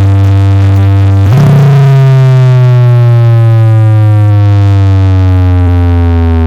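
Simbol Perkasa Audio's carnival sound-horeg rig playing a very loud, deep synthesized bass tone that slowly slides down in pitch, struck again about a second and a half in.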